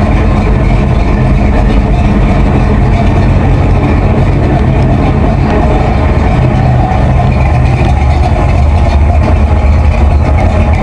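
A V8 muscle car engine idling loudly and steadily with a deep, even rumble.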